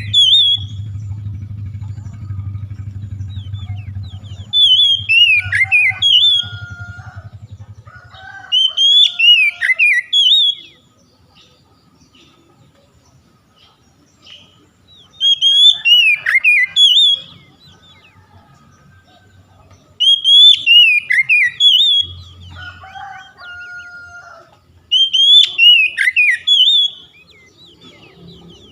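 Oriental magpie-robin (kacer) singing: loud, fast, sweeping whistled phrases of about two seconds, repeated six times with short pauses between. A low hum sits underneath during the first eight seconds or so.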